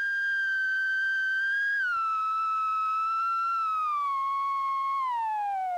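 A single whistle-like tone sliding slowly down in pitch, dropping in a few small steps from high to fairly low: a comic falling-pitch sound effect of the slide-whistle or theremin kind.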